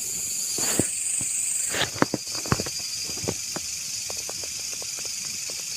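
Wood bonfire crackling, with many irregular sharp pops and snaps over a steady high hiss. The pops come more often from about two seconds in.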